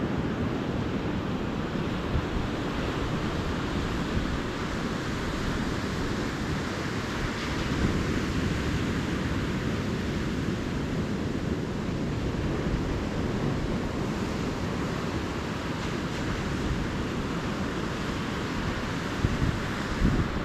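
Ocean surf washing steadily onto a beach, with wind buffeting the microphone. There are a couple of brief bumps near the end.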